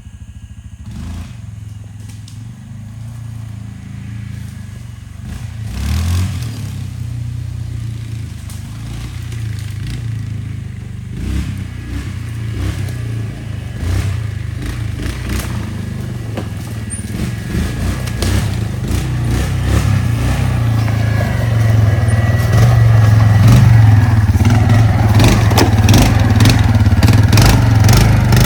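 Small off-road vehicle engine running and growing steadily louder, with rattles and knocks from the vehicle over rough ground.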